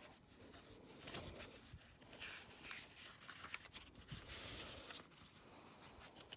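Faint rustling and light clicks of paper being handled: the pages of a picture book being turned.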